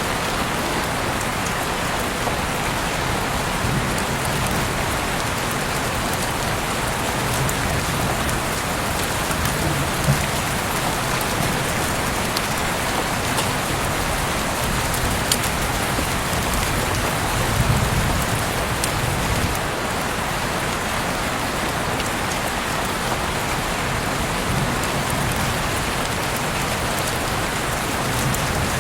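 Heavy rain falling steadily, with a dense hiss and scattered individual drops ticking on surfaces, a few sharper ones standing out.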